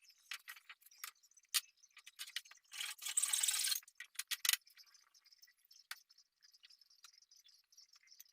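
Small clicks, ticks and light rattles from handling tools and parts, with a rustling hiss that lasts about a second, three seconds in.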